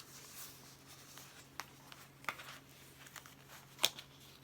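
Light paper rustling and crinkling as a skein of yarn and its paper label are handled, with a few scattered small clicks, the sharpest near the end. A faint steady hum underneath.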